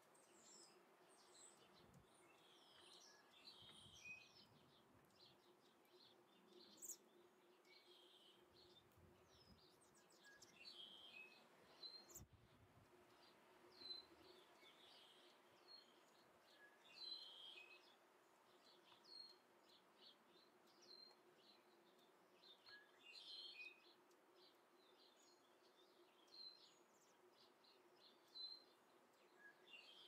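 Faint, scattered high chirps of small birds, many short calls, over a faint steady hum, with one sharp click partway through.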